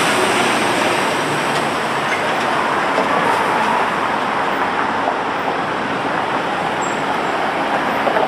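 Steady hiss and rumble of passing street traffic, with no distinct events.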